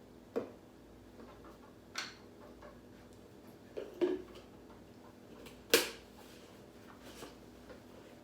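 Scattered sharp clicks and knocks from kitchen containers and utensils being handled, about five in all, the loudest a little under six seconds in, over a faint steady hum.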